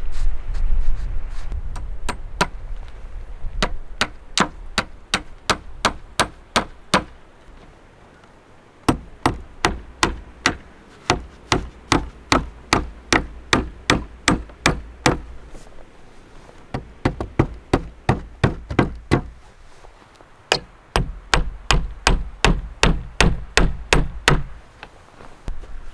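Rapid series of hammer blows, about two to three a second, in four runs separated by short pauses. Wind rumbles low at the start and near the end.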